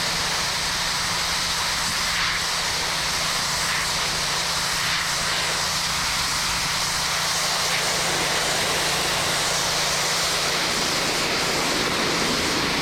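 High-pressure water jet from a pressure washer spraying concrete: a loud, steady hiss over the washer engine's steady hum, cutting off suddenly near the end.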